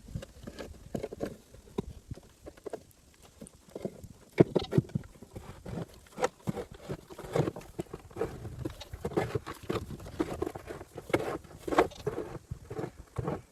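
A snow shovel scraping and scooping through snow, with crunching footsteps, in irregular short strokes.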